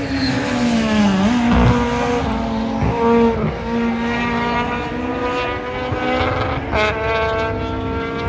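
Rally car engines revving hard on track. The pitch climbs, then drops sharply at gear changes, about a second in, again around three and a half seconds, and with a crack near seven seconds.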